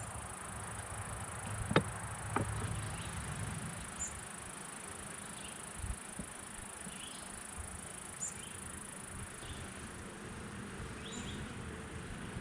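Honeybees buzzing around an open hive as the frames are inspected, with two sharp knocks about two seconds in and a few faint ticks after.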